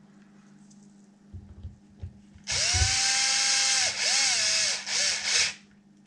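Power drill driving the screws of a beadlock ring on a 1/5 scale RC paddle-tire wheel. The motor spins up and runs for about a second and a half, then in two shorter bursts, its pitch sagging as a screw is driven home. A few low knocks of handling come first.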